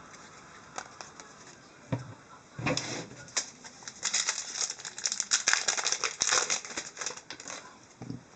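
Trading cards being handled and slid against one another: a run of crisp rustling and flicking from about two and a half seconds in, with a few single clicks before it.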